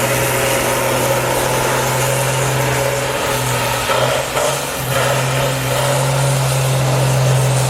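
Race truck's diesel engine held at high revs through a long burnout, over the hiss of spinning rear tyres. The engine note wavers and dips about three to five seconds in, then settles back to a steady high note.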